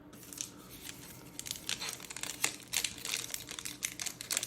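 Trading-card booster pack wrapper being torn open and crinkled in the hands: a dense run of crackles that grows louder from about a second and a half in.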